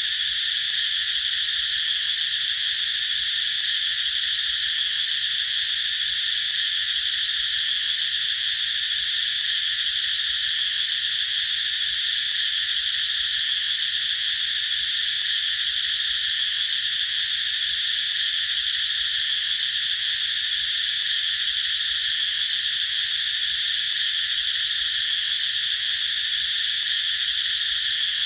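Cicadas singing in a continuous chorus: a dense, high buzz that holds steady without a break.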